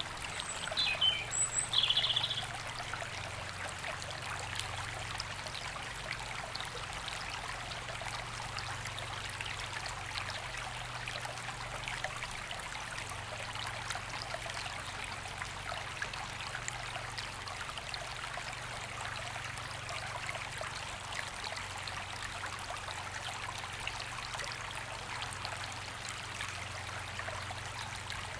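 River flowing over stones in a steady, even rush of water. A bird gives a few short, high chirps during the first couple of seconds.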